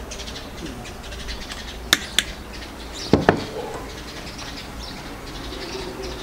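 Birds calling, with two sharp clicks about two seconds in and a louder, sudden sound about a second after them.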